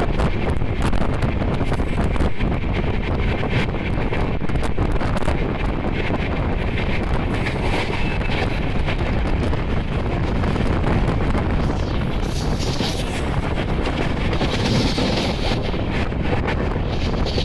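Shatabdi Express passenger train running at speed: steady rumble of wheels on the rails with scattered clicks, and wind buffeting the microphone.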